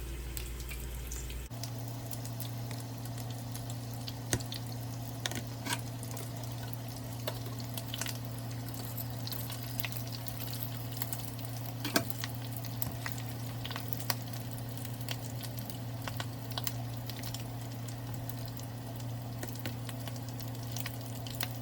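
Rolled tacos frying in hot oil: a steady sizzle with scattered sharp pops and crackles, over a constant low hum.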